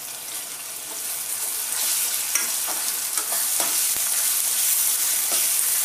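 Chopped onions and spices, with dried fenugreek leaves just added, sizzling in hot oil in a metal kadhai while a steel ladle stirs and scrapes the pan. The sizzle grows louder a second or two in as the mix is turned, with a few scrapes of the ladle against the metal.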